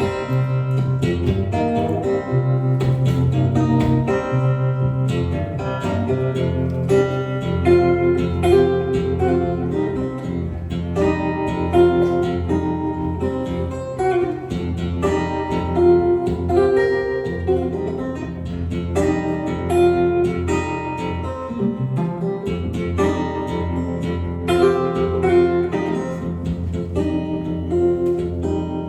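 Acoustic guitar playing an instrumental break in a live song: a picked melody of single notes over held bass notes.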